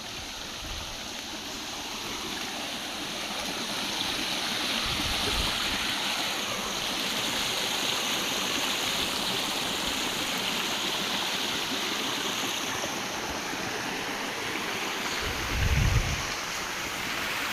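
Steady rushing of flowing water, like a stream, as an even hiss. Near the end, a brief low rumble.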